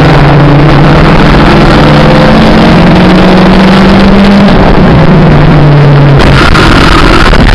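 Mini stock race car's engine running under racing load, heard very loud from inside the cockpit, with road and wind noise. Its pitch climbs slightly, drops about four and a half seconds in, and changes again about six seconds in.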